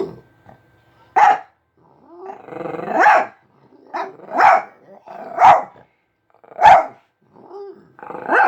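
Dog barking: about five short, loud barks roughly a second apart, with a longer rising growl-like call among them.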